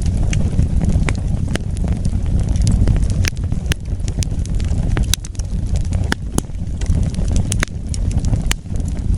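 Wood fire burning: a steady low rumble of flames with irregular sharp crackles and pops, one or two a second.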